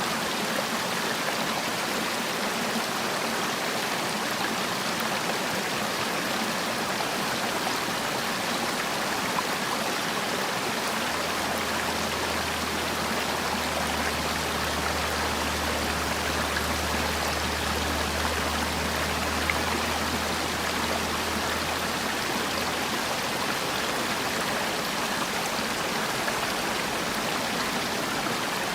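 Mountain stream water rushing steadily over rocks. A low rumble comes in for about ten seconds midway.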